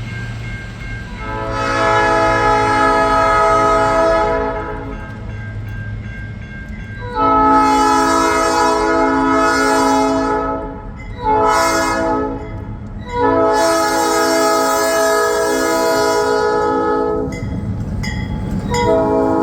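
Diesel locomotive air horn sounding the grade-crossing signal: two long blasts, a short one and a final long one. The train's diesel engines rumble underneath.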